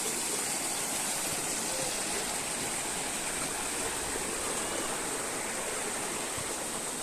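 Flowing water running steadily, an even unbroken rush.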